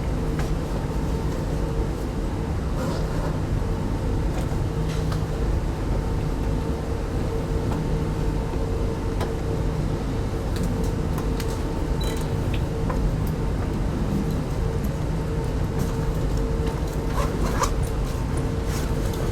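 Steady hum and rumble inside a type 25T passenger railway coach, with a constant low drone and occasional faint clicks and knocks.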